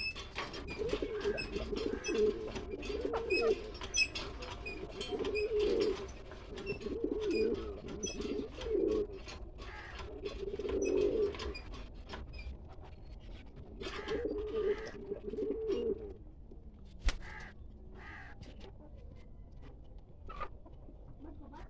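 Pigeons cooing in repeated low bouts, which stop after about sixteen seconds. Faint high chirps and scattered clicks run alongside.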